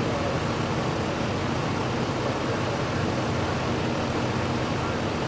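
Steady street traffic noise with a low engine hum underneath, even throughout with no sudden sounds.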